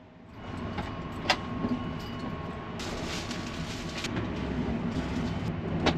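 Steady rumble of the Sunrise Izumo/Seto sleeper train, a 285-series electric train, heard inside a small sleeping compartment. A few light knocks come from luggage being handled.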